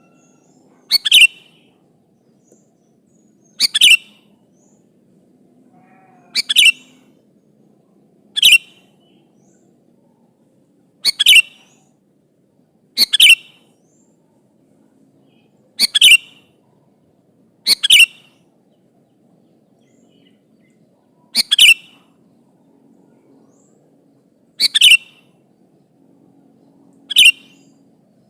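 Sooty-headed bulbul (kutilang) giving short, bright calls, each a quick two-part note, repeated about every two to three seconds. The calls are a lure recording meant to make other kutilang answer.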